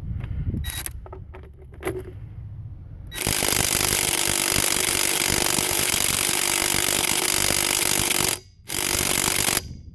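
Craftsman C3 cordless impact driver hammering on a lug nut for about five seconds, stopping briefly, then hammering again for about a second, without breaking the nut loose. A few light clicks of the socket being fitted come before it.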